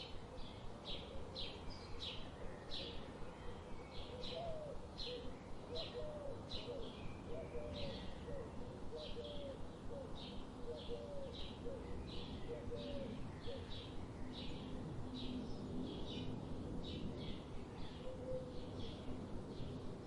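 Birds chirping: a steady run of short, high chirps, about two a second, with a second, lower-pitched bird call repeating beneath it for several seconds in the first half.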